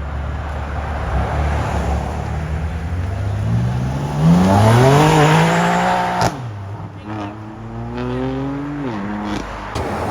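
A car engine accelerating hard: its pitch climbs for about two seconds and breaks off suddenly, then climbs again and falls away.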